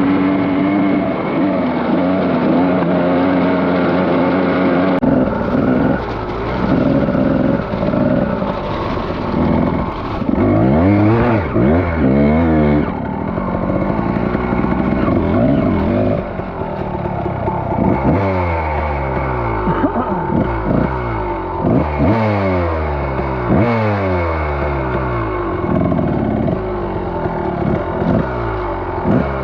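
Dirt bike engine running at a steady pitch, then from about five seconds in revving up and down over and over, with quick repeated rises and falls in the second half.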